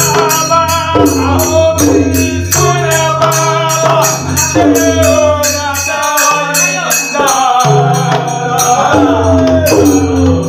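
Bhajan sung by a man, with a drum and jhal hand cymbals striking a steady beat.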